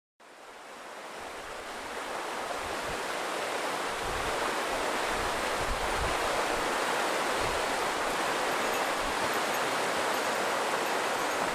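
Shallow snowmelt mountain river, the Azusa, babbling and rushing steadily over stones, fading in from silence over the first few seconds. Faint short high-pitched chirps come in near the end.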